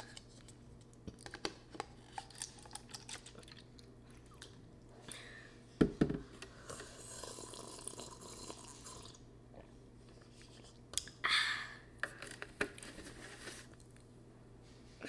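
Close-up eating sounds: chewing with many small wet mouth clicks, a sharp thump about six seconds in, and sips from a paper cup a couple of seconds later.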